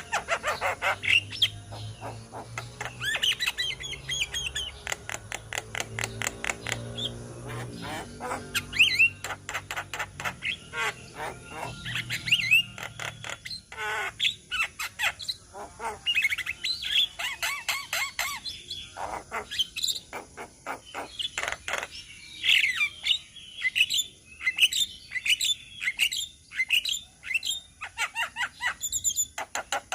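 Several Javan mynas calling together: a dense, irregular run of sharp clicks mixed with short chirps, squeaks and whistles.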